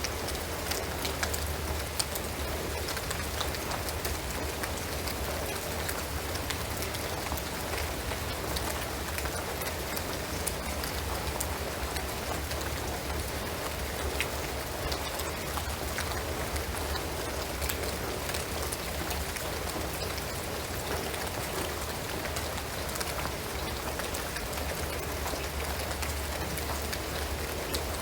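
Steady rain falling on a shingled roof and pine trees, a continuous hiss dotted with many small individual drop ticks, over a steady low rumble.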